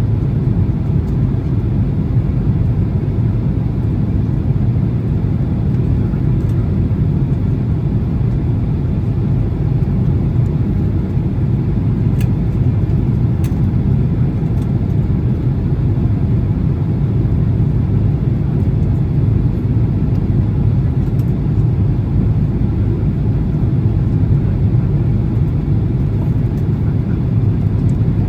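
Steady low rumble inside a Boeing 767-300's passenger cabin in flight, from the engines and the airflow over the fuselage, with a few faint ticks about halfway through.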